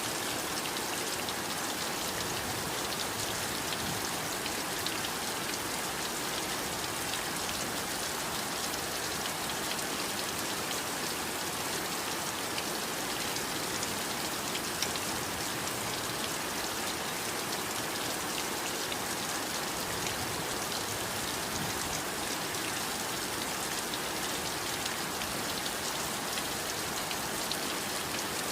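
Steady heavy rain falling, an even hiss dotted with many small drop ticks and no change in strength.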